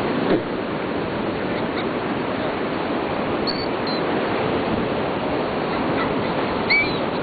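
Steady noise of surf and wind on a beach, with a few short, high seagull calls about three and a half seconds in and a louder call near the end.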